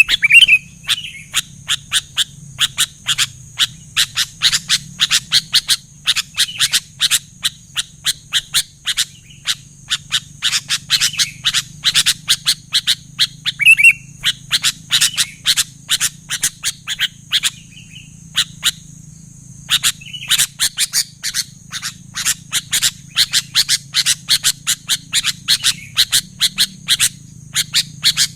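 Sooty-headed bulbul (kutilang) calling in a fast, lively run of short sharp chirps, several a second, with a few longer whistled notes mixed in and a pause of about a second roughly two-thirds of the way through.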